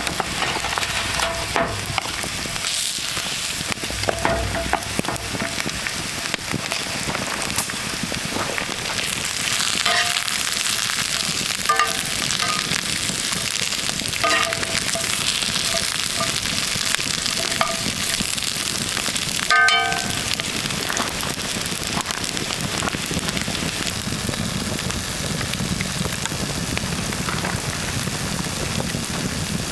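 Food sizzling in a pan over a campfire, a steady hiss with scattered crackles.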